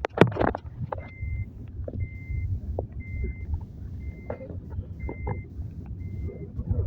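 A truck's reversing alarm beeping steadily, six short beeps about once a second, over a low engine rumble. A loud sudden bump comes right at the start.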